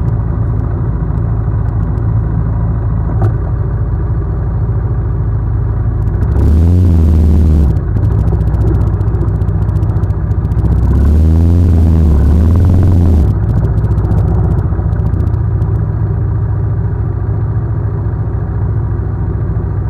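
Land Rover Discovery's engine idling, then revved up twice, for a second or two and then about two seconds, about six and eleven seconds in, as the truck crawls over trail rocks.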